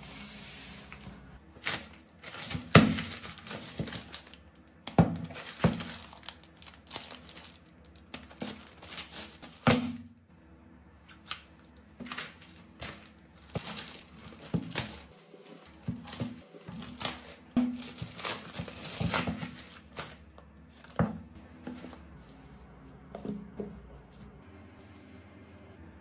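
A smashed iPhone 13 Pro Max being handled for repair: irregular crinkling and crackling with many sharp small clicks and knocks, the loudest about three seconds in.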